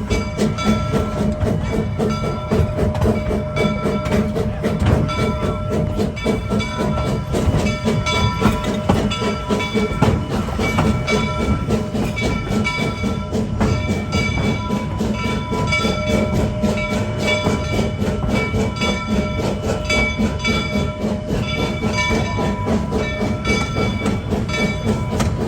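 Two-foot-gauge train running steadily along the track, its wheels clicking over the rail joints in a continuous rhythm. Music plays alongside it.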